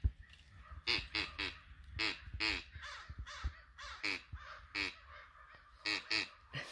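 Duck call blown by mouth, giving a string of short quacks, mostly in twos and threes, about a dozen in all.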